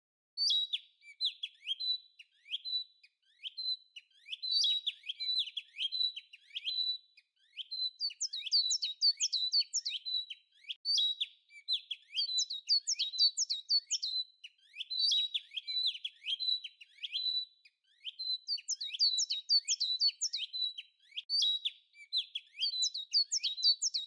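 Birds chirping: quick bursts of high, downward-sweeping chirps every second or two over a thin steady high tone, starting suddenly a moment in.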